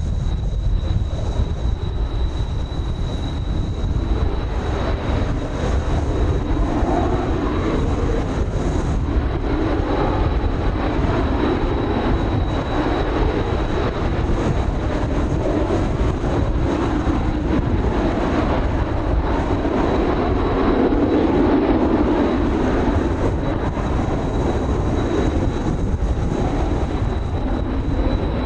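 Kawasaki T-4 jet trainers flying overhead, their turbofan engines' rumble swelling and easing and loudest about three quarters of the way through, with strong wind buffeting the microphone.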